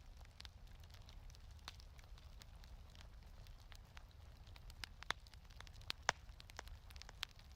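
Fireplace fire crackling faintly, with irregular sharp pops, the loudest a little after six seconds in, over a low steady rumble.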